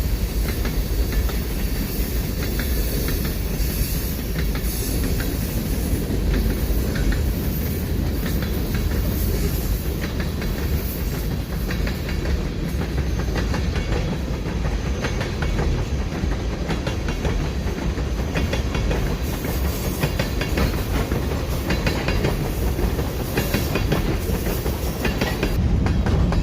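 A train passing close by: a steady low rumble of the rolling cars with repeated clicks and clacks of the wheels over the rail joints.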